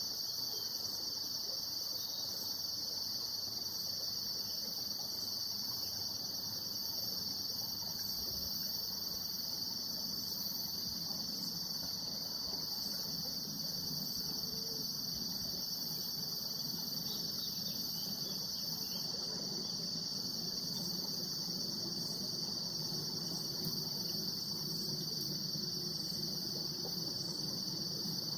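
Steady, high-pitched chorus of trilling insects. A low rumble grows beneath it from about halfway through.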